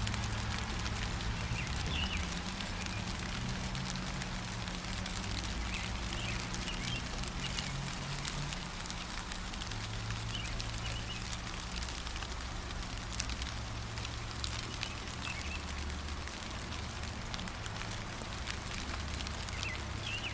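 Steady rain with dense pattering drops over a low steady rumble, and small birds chirping now and then.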